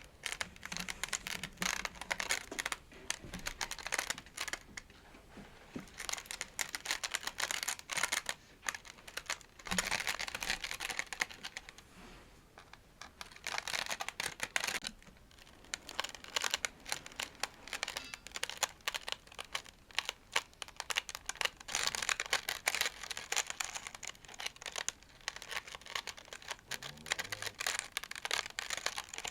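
Close-miked tapping and scratching on textured objects: dense runs of small clicks and scrapes in bursts of a few seconds, with short quieter pauses between them.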